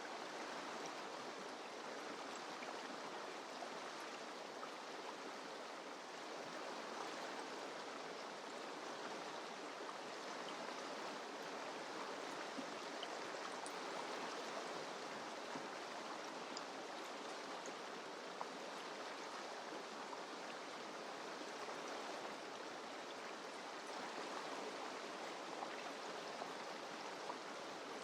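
Mountain river running over rocks: a steady rushing of water with small splashes.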